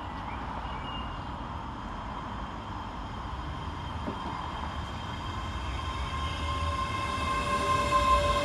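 A pair of Scotrail Class 385 electric multiple units pulling out, with a steady rumble. From about halfway a whine of several steady tones from the traction equipment comes up and grows louder toward the end as the train draws away.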